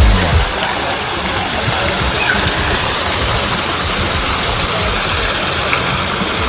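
Steady rushing noise, like running water, that follows background music fading out in the first half second.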